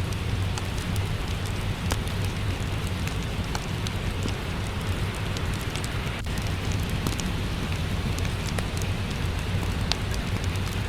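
Steady rain with a low rumble, mixed with the scattered sharp crackles and pops of a wood fire in a fireplace.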